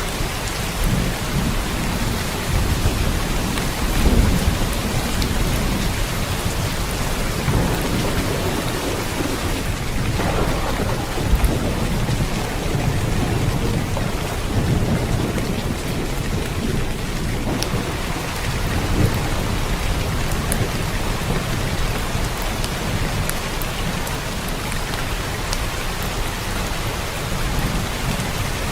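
Steady rain falling, an even hiss, with a low rumble underneath that swells and fades several times, like distant thunder.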